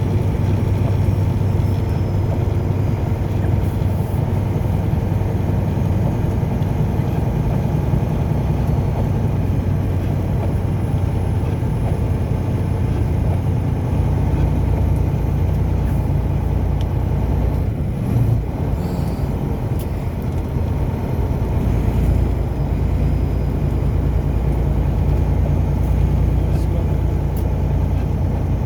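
Steady road and engine noise of a car driving, heard from inside the cabin: a low, even drone with tyre rumble that barely changes in level.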